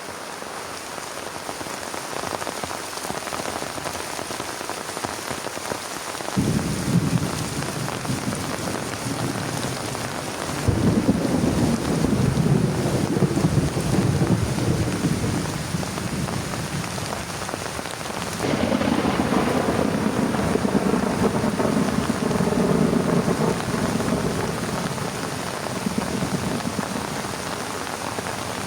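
Heavy rain falling steadily, with thunder rumbling three times. The rumbles start suddenly about six, eleven and eighteen seconds in, and each rolls on for several seconds.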